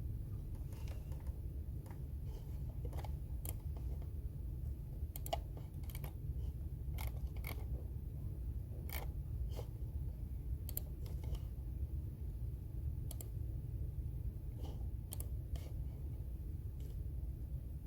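Computer keyboard keystrokes, sparse and irregular, with pauses between short runs of keys, over a steady low hum.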